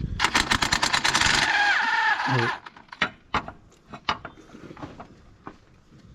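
Power tool on a bolt of the power steering pump and alternator bracket: a fast run of sharp hammering clicks for about a second and a half, then a steady whir that stops suddenly about two and a half seconds in. Light metallic clicks and knocks of tool and parts follow.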